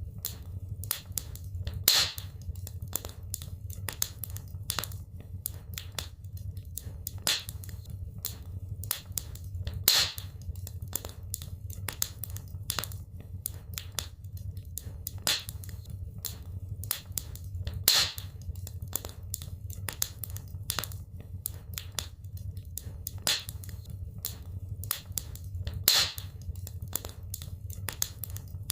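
Wood fire in a fireplace crackling, with many small sharp crackles and a louder pop about every eight seconds over a steady low hum. The pattern repeats evenly, like a loop.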